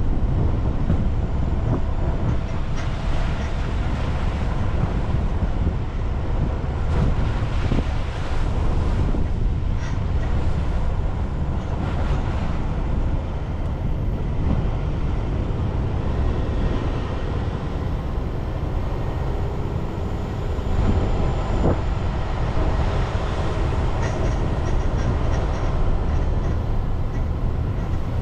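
Car driving along a road: a steady low rumble of tyres and engine with a hiss of road noise.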